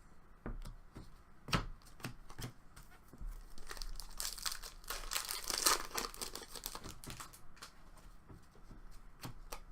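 Trading card pack wrapper being torn open and crinkled, with scattered clicks and taps of cards being handled; the rustling is densest in the middle.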